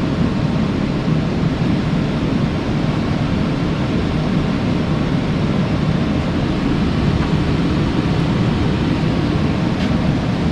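Carrier 58MCA gas furnace starting up, its fan running with a steady low rush of air before the burners light.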